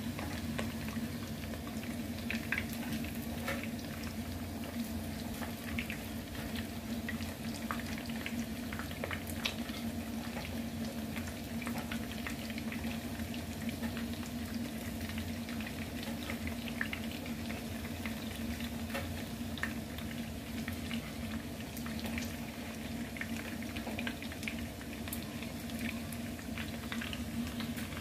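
Breaded chicken pieces frying in hot oil in a pan: a steady sizzle full of small pops and crackles, over a steady low hum.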